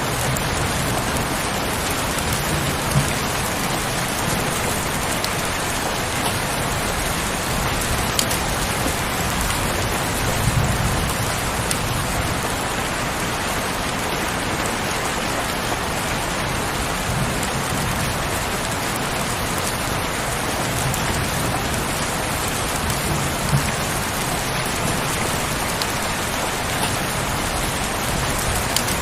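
Steady heavy rain, an even hiss with now and then a sharper drop hit and a soft low rumble.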